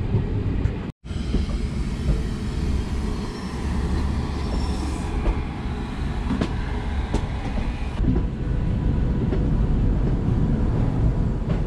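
Passenger express train running on the rails: a steady rumble of wheels and coaches, with a few sharp clacks around the middle. The sound drops out briefly about a second in.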